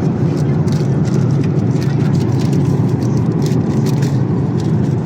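Steady low rumble of air and engine noise inside the cabin of a Boeing 787-8 airliner, with a few faint light ticks over it.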